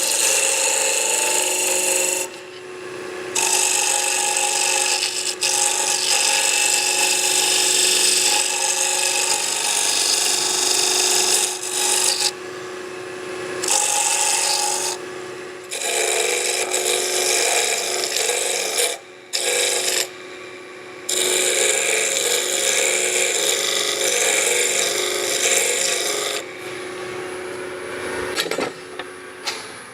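Wood lathe running with a steady hum while a turning chisel cuts a spinning wooden spindle, taking it down to size in a series of passes. The scraping noise breaks off several times as the tool is lifted away, and it fades near the end.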